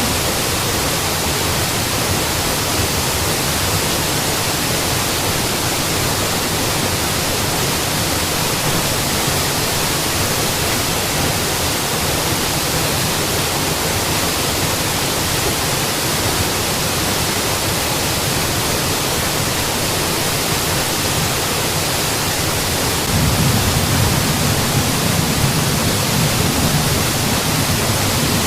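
Waterfall: a steady, even rush of falling water. About 23 seconds in, a deeper low rumble swells up and the sound gets louder.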